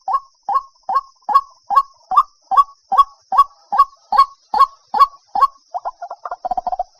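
White-breasted waterhen calling: a steady series of repeated notes, about two and a half a second, that breaks about five and a half seconds in into quicker, jumbled notes.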